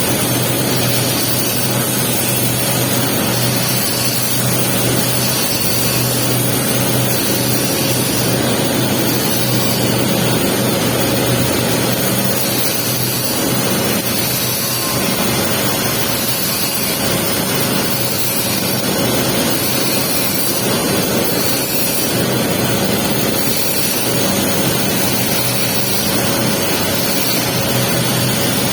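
Welding arc burning steadily with a continuous sizzling crackle while the capping pass is laid on the pipe, over a steady low hum.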